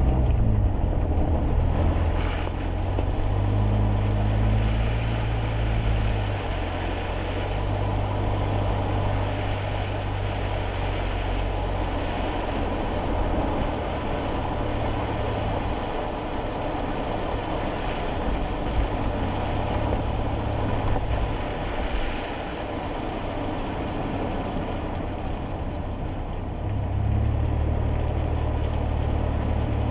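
Inside a kei car's cabin while driving in the rain: steady rushing hiss of tyres on a wet road under a low engine drone. The drone is strongest in the first few seconds and again near the end, and shifts in pitch a few times.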